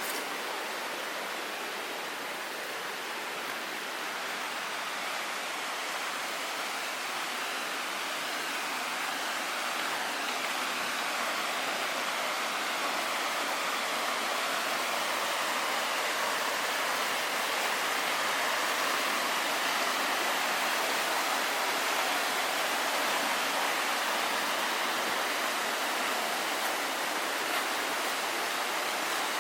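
Waterfall rushing steadily, growing a little louder over the first half.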